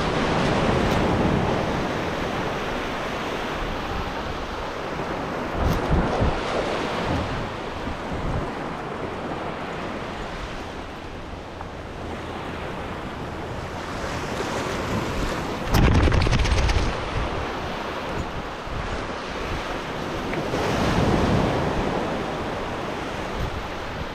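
Ocean surf washing onto a beach in slow swells, with wind gusts buffeting the microphone, the strongest gust about sixteen seconds in.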